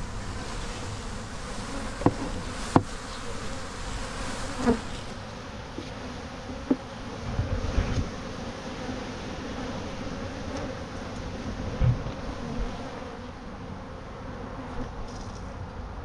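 A mass of honey bees buzzing steadily around an open hive, with a few sharp knocks and low thumps from handling the hive equipment.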